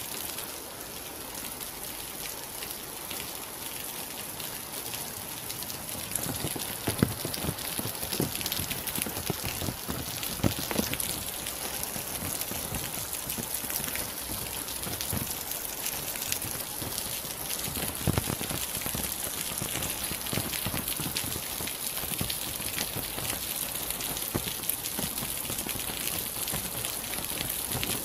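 Steady rain falling: a constant hiss with individual drops tapping on a surface, a few sharper, louder drops standing out now and then.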